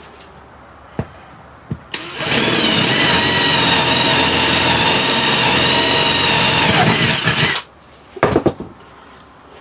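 Power drill running for about five and a half seconds, drilling a small hole: a steady high motor whine that starts and cuts off abruptly. A few sharp knocks follow just after it stops.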